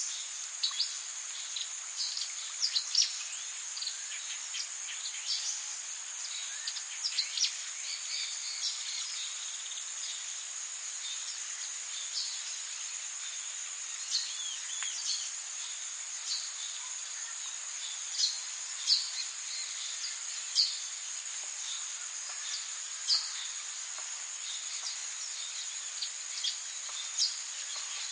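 Rainforest ambience: a steady high-pitched insect drone, with many brief bird chirps that drop in pitch, scattered irregularly throughout, a few of them louder.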